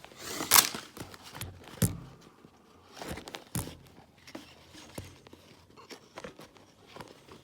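Irregular clicks, taps and rustling, the sounds of something being handled and knocked about on a hard surface, loudest about half a second in. No engine is heard running.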